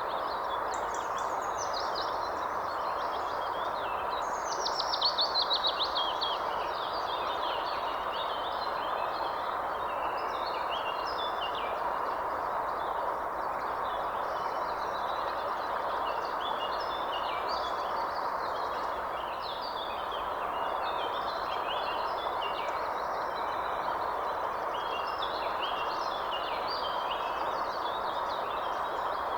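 Many birds chirping and singing over a steady rushing background noise. About five seconds in, a fast run of notes falling in pitch is the loudest call.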